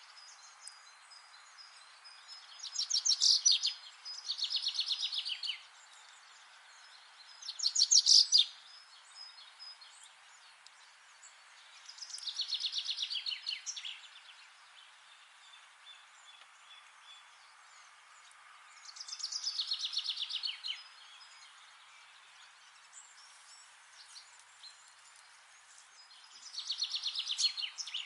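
A songbird singing six rapid, high trilled phrases, each one to two seconds long and coming every few seconds, over a steady background hiss.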